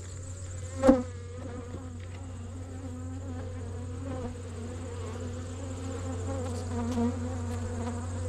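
Honey bees buzzing steadily over an opened hive as a frame is worked, with one sharp knock about a second in.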